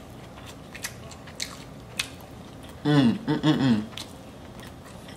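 Close-miked chewing of a takeout meal, with scattered wet mouth clicks and smacks. A short voiced sound comes about three seconds in.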